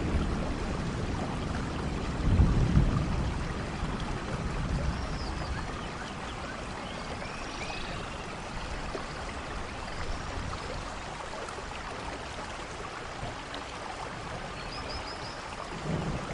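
Steady rainfall in a rainforest, an even hiss of drops, with a low rumble swelling about two seconds in and faint high chirps from time to time.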